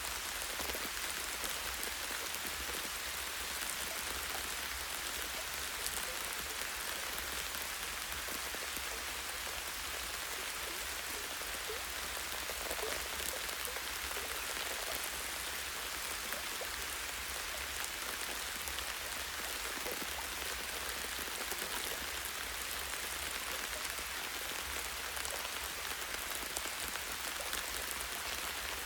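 Light rain falling steadily, with drops pattering on tree branches and leaves in an even hiss of many small ticks.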